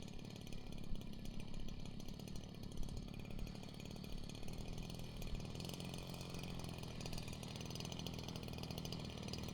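Small two-stroke gas engine of a large RC Piper Cub (a G26 turning an 18x8 propeller), running steadily with a fast, even putter.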